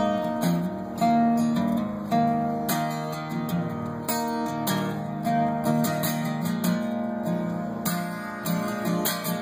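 Acoustic guitar strummed in a steady rhythm between sung lines, with no vocal.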